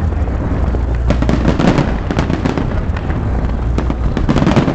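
Fireworks going off in rapid, overlapping bangs and crackles, with a continuous low rumble of booming shells underneath.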